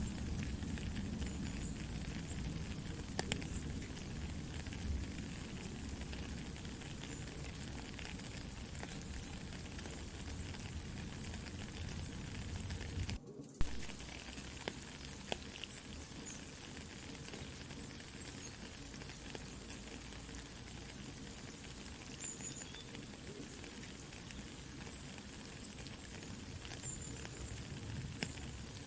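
Soft, steady rain mixed with the crackling and occasional sharp pops of a campfire. The sound cuts out briefly about 13 seconds in, and a loud pop follows.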